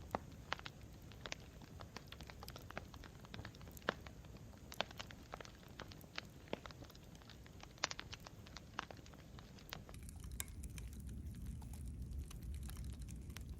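Campfire burning: wood crackling with irregular sharp pops over a low rumble of flames. The crackles thin out about ten seconds in as the low rumble grows.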